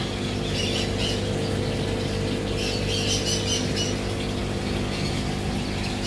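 Birds chirping in two short bouts, about half a second in and again around three seconds in, over a steady hum from aquarium pumps.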